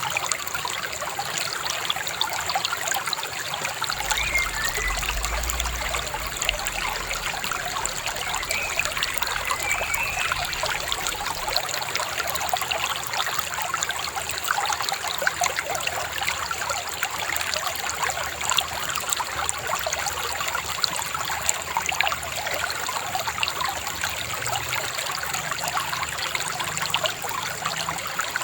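River babbling and trickling steadily, with a couple of faint short bird chirps about three and ten seconds in.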